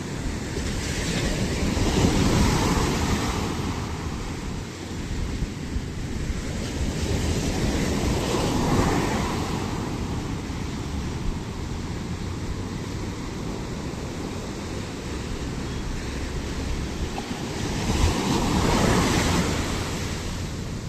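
Sea waves breaking on the shore: three surges, about two seconds in, near the middle and near the end, each swelling and washing back over a constant low rush of surf.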